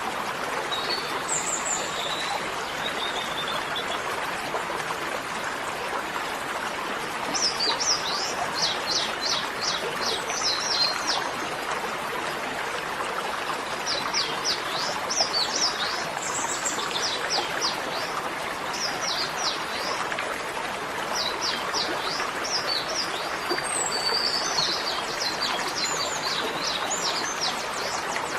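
Small birds chirping in clusters of quick, repeated notes over a steady rushing noise like flowing water.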